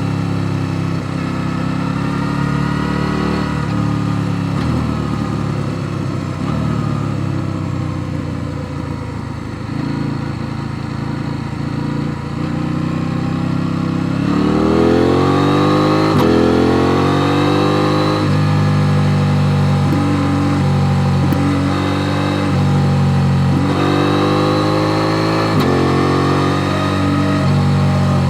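KTM 890 Duke R's parallel-twin engine under way, running fairly steadily and easing off for a while, then about halfway in opening up hard with revs climbing. Several more rises in revs follow, broken by sudden steps as it shifts gear.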